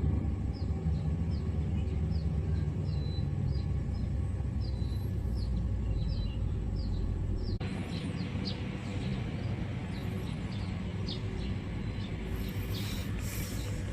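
Baby bird chirping repeatedly in short high calls, about two a second, over a steady low rumble. About halfway through the sound cuts abruptly, and after it the chirps come thicker.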